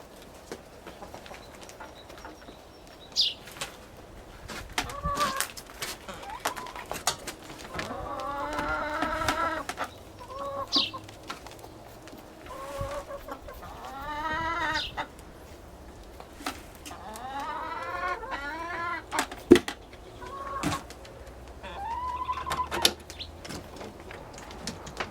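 Chickens clucking in a series of drawn-out calls, with scattered clicks and knocks and a couple of short high chirps.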